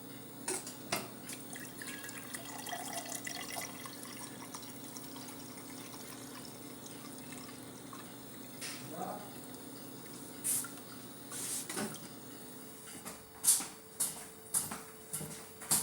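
Water dripping, over a faint steady hum, with sharper irregular clicks in the last few seconds.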